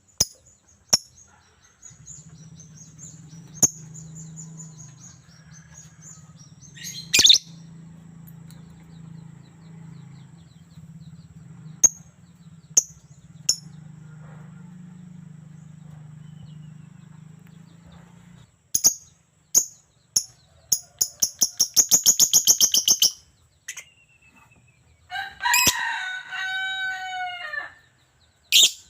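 Lovebird chattering: short, sharp, shrill chirps and clicks throughout, with a rapid run of shrill notes about two-thirds of the way through. Near the end a rooster crows once, a call of about two and a half seconds that falls in pitch.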